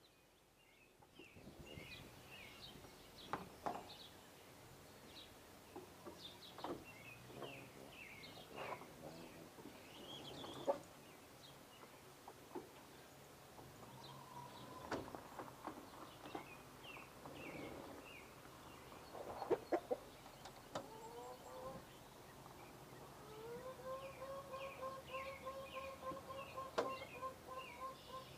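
Small birds chirping in quick short notes throughout, with scattered sharp knocks. Near the end a domestic chicken gives a long, drawn-out pulsed call.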